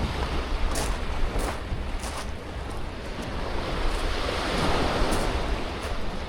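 Sea waves washing onto the beach, one swell building and fading about four to five seconds in, with wind rumbling on the microphone.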